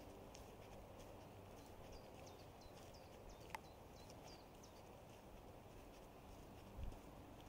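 Near silence with faint, high, short bird chirps repeating throughout, and one sharp click about three and a half seconds in.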